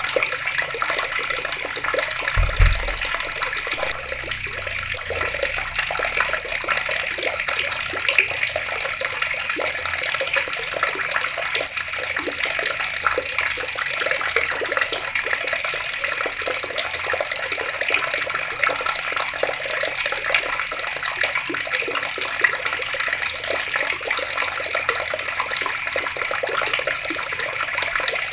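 Outdoor water tap running, a steady stream of water splashing without pause. A brief low thump sounds about two and a half seconds in.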